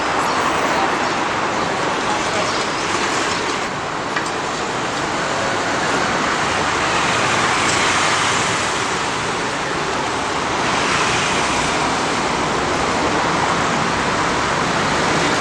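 Steady roadside traffic noise with indistinct voices, swelling a few times as vehicles pass.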